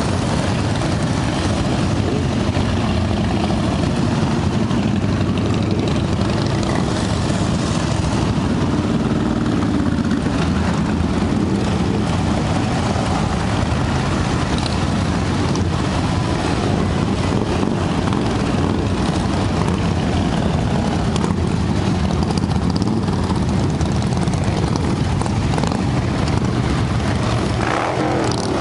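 Motorcycles riding along, their engines running steadily with a constant low rumble and road noise.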